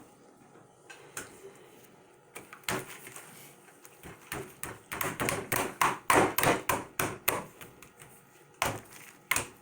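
Slime being squeezed and handled, giving sharp clicks and pops: a few scattered ones, then a quick flurry partway through, then a couple more near the end.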